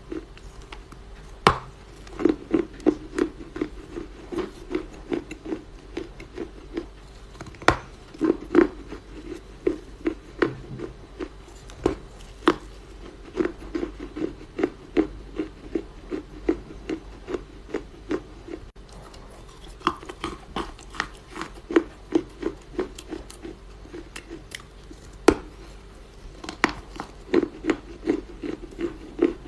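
Dry Chinese loess (yellow clay) being crunched: soft, rapid crackles, several a second, with a few sharper snaps.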